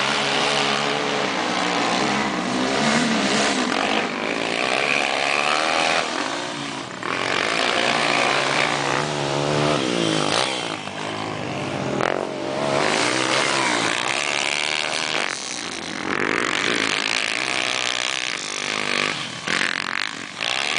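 Motocross motorcycle engines revving up and down as the bikes ride, their pitch rising and falling over and over, with brief lulls in between.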